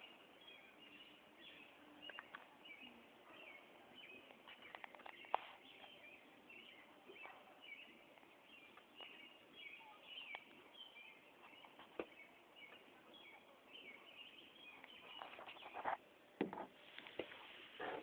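Faint chirping of small birds in the background, with scattered sharp clicks and knocks.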